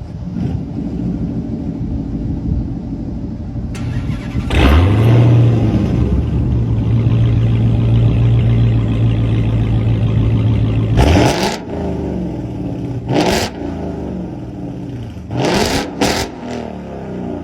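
Car engine and exhaust idling, then revved up about five seconds in and held at a steady higher rpm for several seconds, then blipped in four short, sharp revs.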